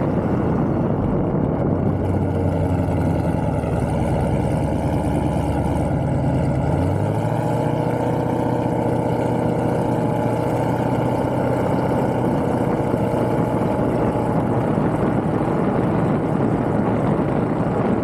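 A car engine idling steadily, its pitch stepping up slightly about seven seconds in as the revs rise a little.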